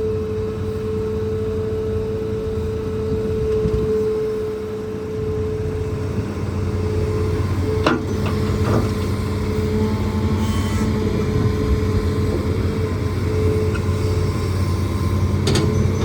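Hitachi ZAXIS200 excavator's diesel engine running steadily under a steady whine, with a sharp knock about eight seconds in and another near the end.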